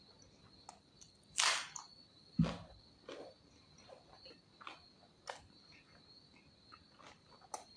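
Close-miked eating sounds: scattered mouth clicks and smacks while chewing, a louder crunchy or slurping burst about a second and a half in, and a dull knock just after. A steady high cricket chirr runs behind them.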